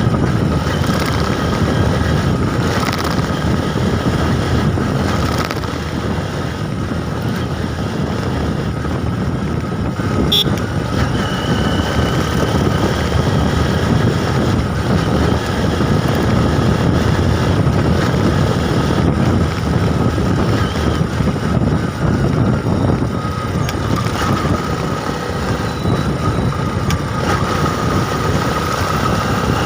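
Steady wind and road rumble on the microphone while riding a bike, with a short sharp click about ten seconds in.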